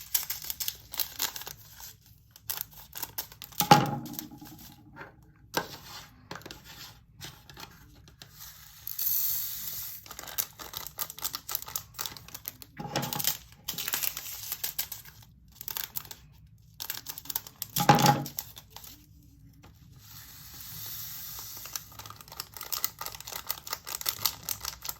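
Small plastic bead containers and bags of diamond-painting drills being handled: a run of light clicks and rattles, two stretches of rustling, and three louder knocks of hard plastic.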